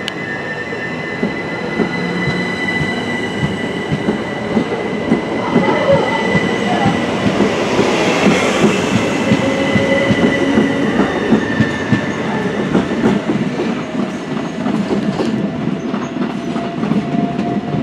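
Southern electric multiple unit running along the platform: a steady high electric whine over dense, rapid wheel-on-rail clatter, with a whine that climbs slowly in pitch in the second half.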